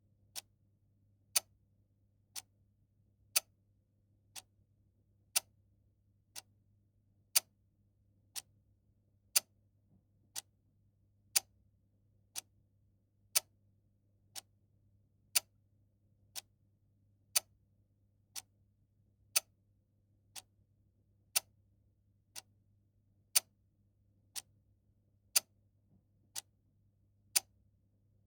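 Clock ticking steadily once a second, a louder tick alternating with a softer tock.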